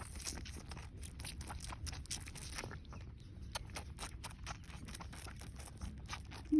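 Baby lamb sucking on a feeding-bottle teat: faint, quick, irregular clicking and smacking. A loud bleat starts right at the very end.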